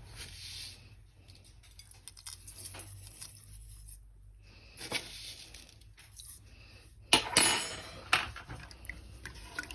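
Kitchen clinks and clatter of a pot and utensils, with a louder rattling scrape lasting about a second about seven seconds in.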